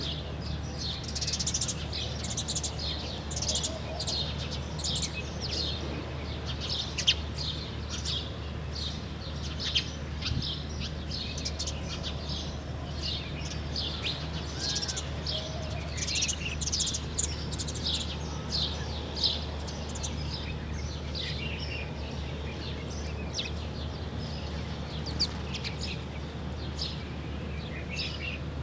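Several songbirds chirping and calling at once, a dense chorus of short, high-pitched notes that overlap throughout, over a steady low rumble.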